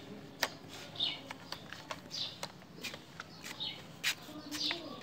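Small birds chirping in short repeated calls, about one a second, mixed with several sharp plastic clicks and knocks from toy vehicles being handled.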